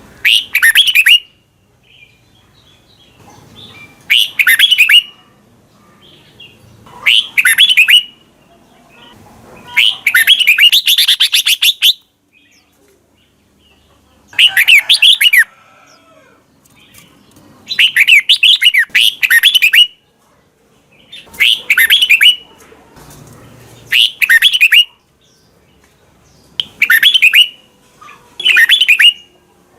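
Red-whiskered bulbul singing short, sweeping whistled phrases of about a second each, one every two to three seconds, with one longer phrase about ten seconds in.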